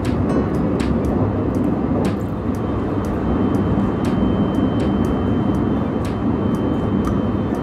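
Running noise inside a Sunrise Seto sleeper train (285 series electric train) on the move: a steady, dense low rumble with scattered sharp clicks and knocks.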